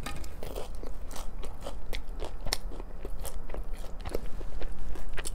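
Close-up eating sounds of a breaded fried chicken strip being bitten and chewed: crunchy bites and chewing, with irregular crisp crackles and clicks from the crust.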